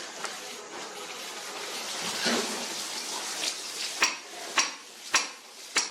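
Construction work with hand tools on plaster and brick: a steady scraping hiss, then, from about four seconds in, a run of sharp metallic taps, roughly one every 0.6 s.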